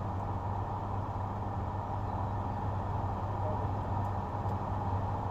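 Steady low hum of a car with its engine running, heard from inside the cabin.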